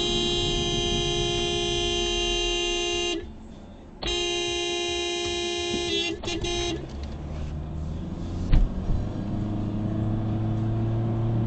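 Car horn held down for about three seconds, then, after a second's pause, held again for nearly three seconds and finished with a few quick taps. Afterwards a low steady vehicle hum with a single thud.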